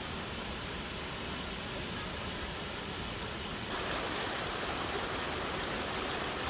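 Rushing water of a cascading rainforest creek, a steady hiss. It becomes louder and brighter a little over halfway through.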